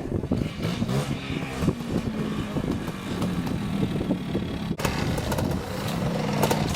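Two-stroke single-cylinder engine of a Montesa Cota trials motorcycle fitted with an RM Lightning electronic CDI ignition, running and being blipped, its pitch rising and falling. It drops out for an instant just before the five-second mark, then carries on.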